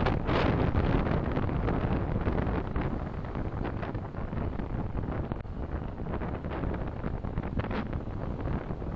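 Steady road and wind noise from a car driving, picked up by a dashcam microphone. It is a little louder in the first couple of seconds and eases slightly after.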